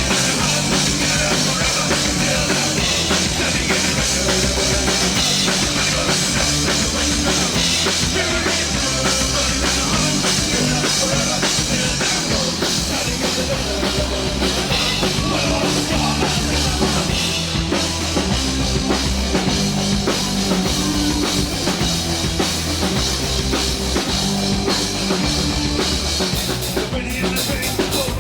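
Rock band playing, with a driving drum kit to the fore.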